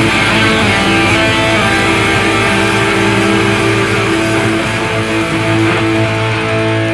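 Rock band music driven by strummed electric guitars holding steady chords, with no singing.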